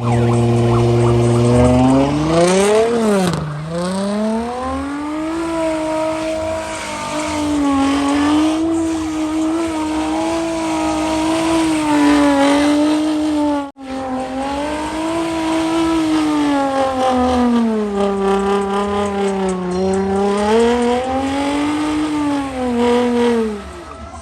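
A car engine held at high revs, its pitch swinging up and down as the tyres spin and squeal. There is a quick rev-and-drop about three seconds in, and the sound cuts out abruptly for an instant about halfway through.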